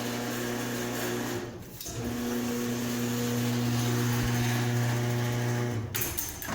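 Electric garage door opener motor running with a steady hum. It stops for about half a second roughly a second and a half in, starts again, and cuts off near the end.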